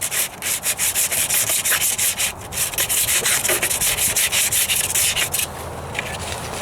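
Hand sanding of body filler and spot putty on a truck's rocker panel with sandpaper on a sanding block, rubbed in quick back-and-forth strokes. About five and a half seconds in, the strokes turn steadier and quieter.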